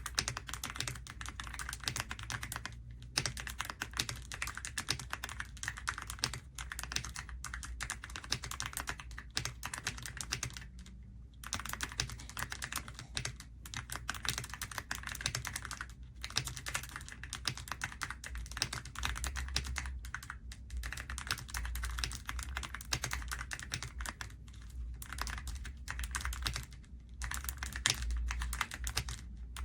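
Continuous fast typing on an EPOMAKER x Aula F99 gasket-mount mechanical keyboard with Graywood V3 switches: a dense run of keystroke clacks with a few brief pauses. A steady low hum runs underneath.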